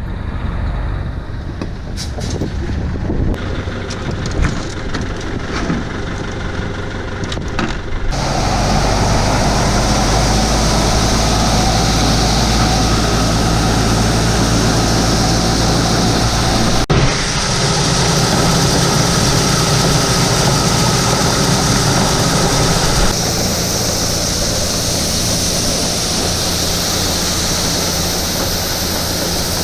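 Engine-driven farm machinery running steadily while a truck is loaded with corn, after several seconds of scattered clicks and knocks. The running sound shifts suddenly twice.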